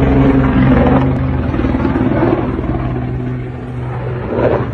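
Drone of an ATR 72-500's turboprop engines and propellers, heard from the ground as the airliner comes down in a spin. It is a steady low hum that fades slightly after about three seconds.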